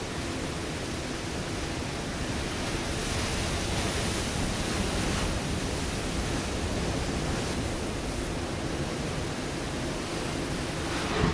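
Ocean surf breaking on a rocky shore: a continuous rushing wash of water that swells for a couple of seconds in the middle, with a brief sharper splash near the end.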